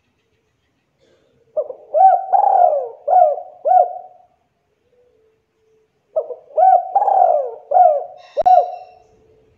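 Spotted dove (tekukur) cooing: two phrases of several rounded coos each, the first about a second and a half in, the second about six seconds in. A short sharp click comes near the end of the second phrase.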